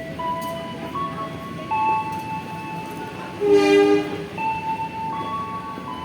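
Slow melody of long held notes over a steady low rumble. About three and a half seconds in, a short horn blast with a rich, many-toned sound.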